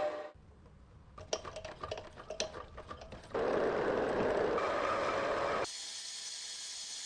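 Workshop restoration sounds in short cut-together clips: light clicks and taps of small parts being handled, then a steady machine noise for about two seconds, switching suddenly to a steady high hiss.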